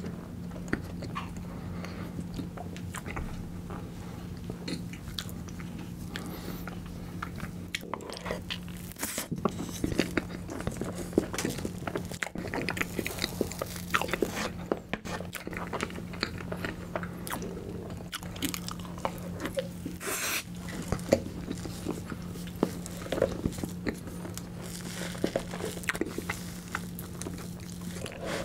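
Close-miked chewing and wet mouth sounds of eating tiramisu cake, with occasional clicks and scrapes of a wooden spoon in the plastic tub. A faint steady hum runs underneath.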